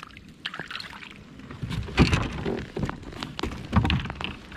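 Knocks, clicks and bumps of handling in a kayak while a hooked fish is landed, with heavier thumps about two seconds in and again near four seconds.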